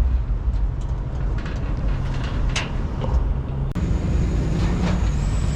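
Steady low rumble of a car engine running, with a few faint clicks; the sound changes abruptly about two-thirds of the way through.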